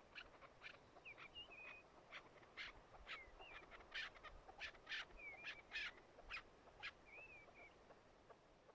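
Faint bird calls: a string of short, sharp notes at an irregular pace, mixed with several short slurred whistles.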